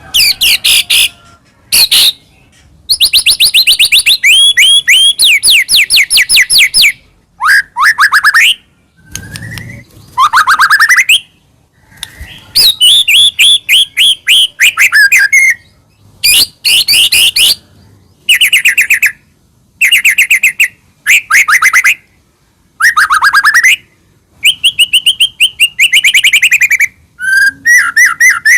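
White-rumped shama singing loudly: phrases of rapid repeated whistled notes and trills, each a second or a few long, broken by short pauses.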